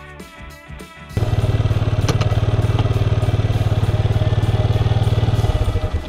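Yamaha Serow 250's air-cooled single-cylinder engine idling close by with a rapid, even pulse. It comes in suddenly about a second in and dies away near the end. Background music runs underneath.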